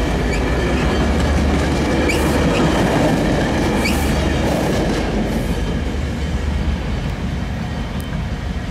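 A train passing at close range: a steady rumble of wheels on rail with clickety-clack, slowly fading over the last few seconds.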